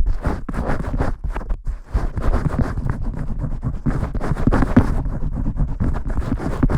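Vigorous shampoo-style scrubbing close to the microphone: a dense, continuous run of quick scratching and rubbing strokes.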